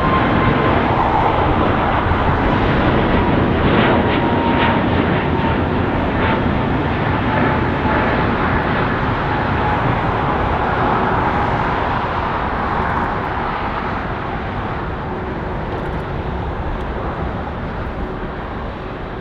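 Boeing 767-300 freighter's jet engines as it comes in to land, a loud roar with a whine that slowly falls in pitch as it passes, fading gradually over the last several seconds.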